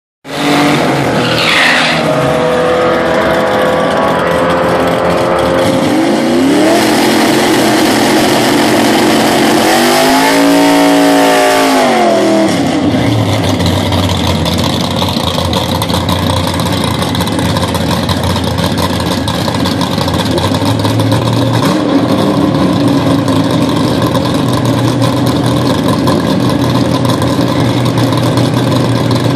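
Turbocharged 3.8-litre V6 of a 1987 Buick Regal T-Type, fitted with a bigger turbo and 3-inch downpipe, revving hard through a burnout with the rear tyres spinning, the revs rising and falling before dropping off about twelve seconds in. After that the engine idles steadily as the car creeps forward.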